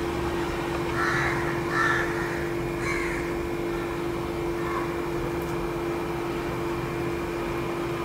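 A bird calling about four times in short, harsh calls, mostly in the first three seconds, over a steady low hum.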